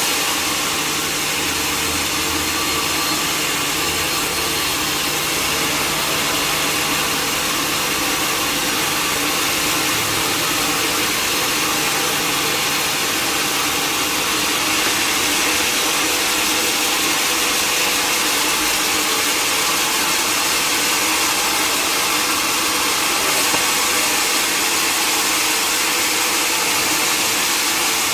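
Sawmill machinery running steadily: a continuous, even noise with a faint low hum underneath.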